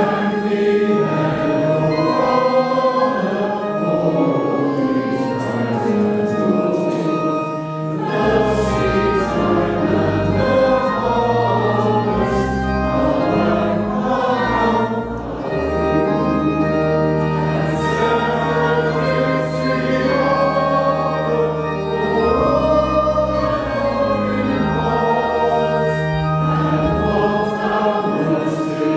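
Congregation singing a hymn with pipe organ accompaniment, the organ's bass notes held long underneath.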